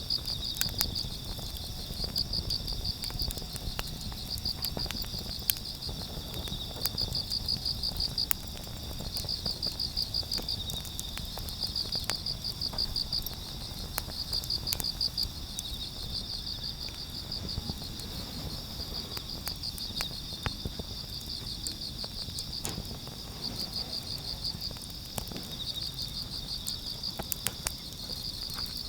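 Crickets chirping in short pulsed trills, a burst every second or two, over a steadier insect trill a little lower in pitch, with a sharp click now and then.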